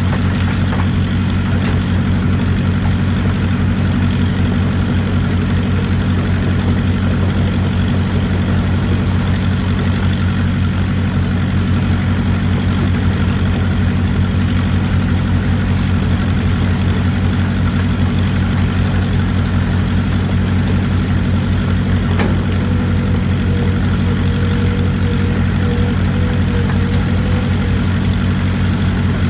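Excavator engine running steadily with an even, deep drone. A faint higher whine comes in about two-thirds of the way through and fades out shortly before the end.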